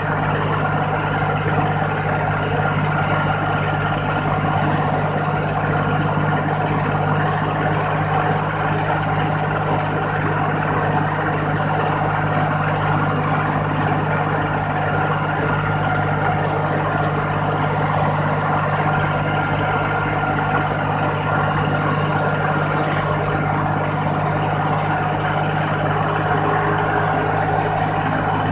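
Iseki 40 hp tractor's diesel engine running at a steady, unchanging speed through an aftermarket 'fuel-saving' exhaust pipe, heard from the driver's seat.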